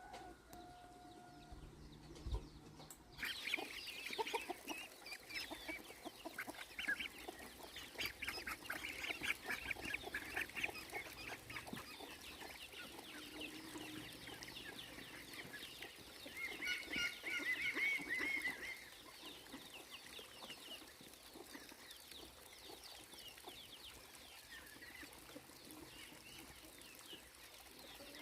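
Chickens clucking, many short calls overlapping, with a louder run of calls past the middle. The first three seconds are quieter, before the clucking starts.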